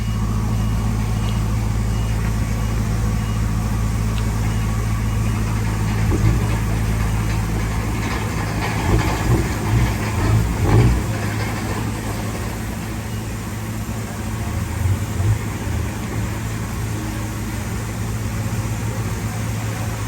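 Diesel engine of a crawler bulldozer running steadily, with irregular clanks and rattles, strongest near the middle.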